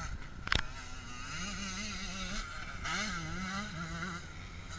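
Motocross bike engine revving up and down repeatedly as the throttle is worked. There is a sharp knock about half a second in.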